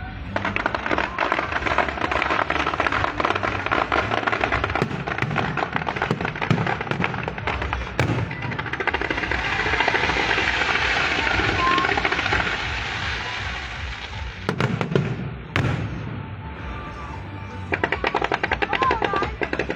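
Fireworks going off: long runs of rapid crackling reports, merging into a continuous crackle through the middle, with a few sharper single bangs and low thumps about three-quarters of the way through.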